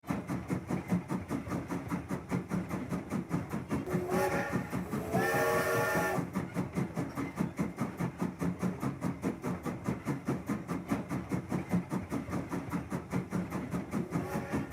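Steam locomotive sound: a steady run of quick, even chuffs. A whistle gives a short blast about four seconds in and a longer one about a second later.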